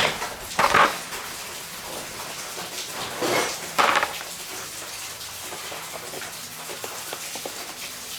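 Metal tools or parts clinking and clanking as they are handled, with a few loud knocks near the start and two more around the middle.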